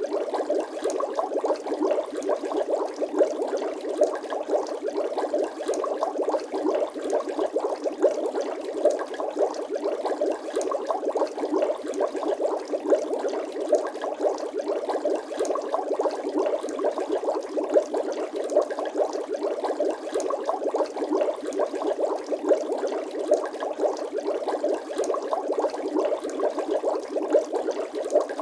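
Water bubbling: a steady, dense stream of small pops that runs without a break.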